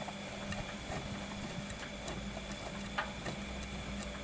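Old Bosch washing machine running a cottons 40 °C wash: a steady motor hum with scattered small clicks, and a low rumble that comes in a little past halfway.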